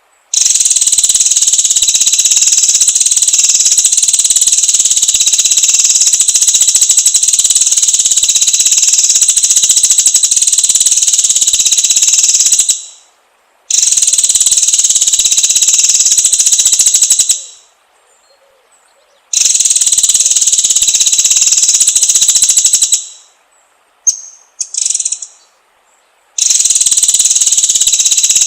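Loud, steady, high-pitched insect buzzing in long bouts of several seconds, broken by short pauses. In one gap, a bird gives a few brief chirps.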